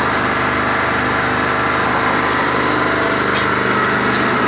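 Small portable petrol generator running steadily, louder than the concrete mixer it powers, with the Skif BSM 200 mixer's drum turning a load of concrete underneath. Two faint ticks come late on.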